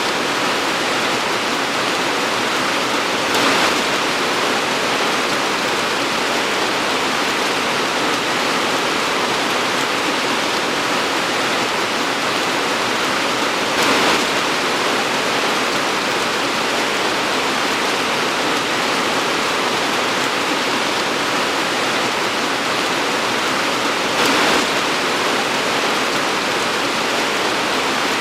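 Torrential rain pouring, a dense, steady hiss that briefly swells louder three times, about ten seconds apart.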